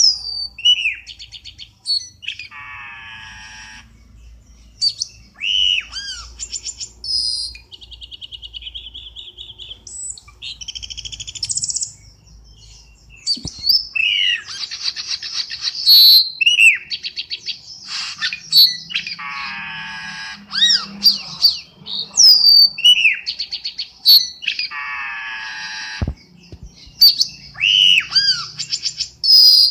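Cucak keling birdsong played as a trapping lure call: a busy run of short whistles that swoop up and down, quick chattering trills, and now and then a harsh, grating call.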